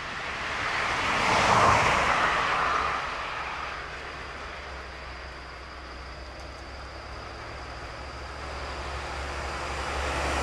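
Two-car electric train of Meitetsu Mo750 and Mo510 railcars running coupled, passing close by and fading away within a few seconds. Near the end a low, steady rumble rises.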